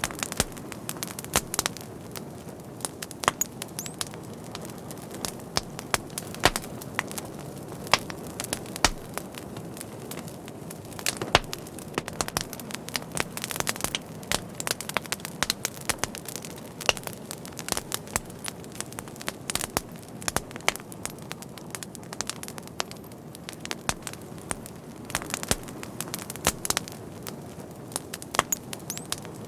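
Wood fire burning, with frequent sharp crackles and pops at irregular intervals over a steady low rush of flame.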